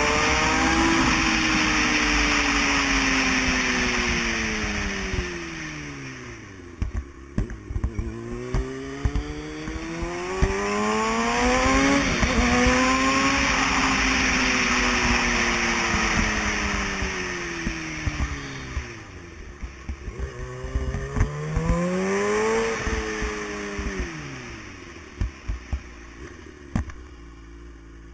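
Motorcycle engine accelerating hard and then easing off, three times over, its pitch climbing and then sliding down each time. Scattered sharp clicks sound in the quieter stretches between the pulls.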